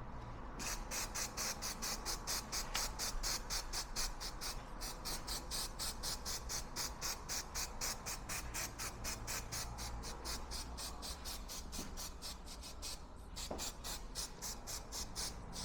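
Aerosol can of heat-resistant enamel spraying paint, a hiss that pulses several times a second. It breaks off briefly about four and a half and thirteen seconds in.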